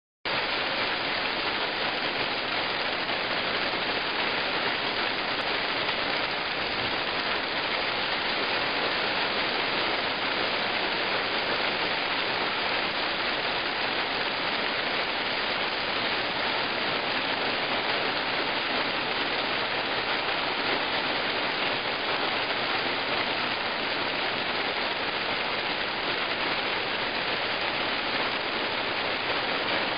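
Hail storm: hailstones, likely with rain, pelting down in a dense, steady rush with no let-up.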